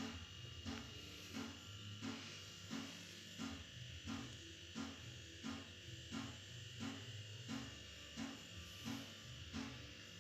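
Domestic cat purring close by, a buzzing purr that swells and eases evenly about three times every two seconds with its breathing.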